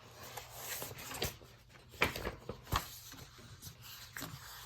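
Paper textbook pages being handled and turned back: soft rustling with a few sharp clicks, the loudest about two seconds in.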